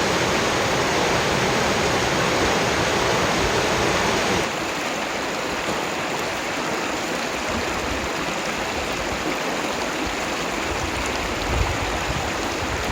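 Steady rushing water of a mountain waterfall. About four and a half seconds in it drops a little in level and loses some of its deepest part, then runs on evenly.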